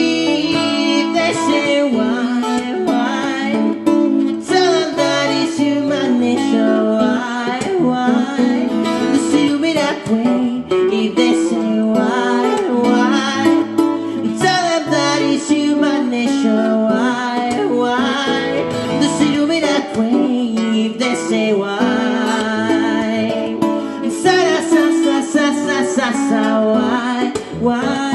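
Acoustic guitar music, strummed and picked, with a voice singing over it.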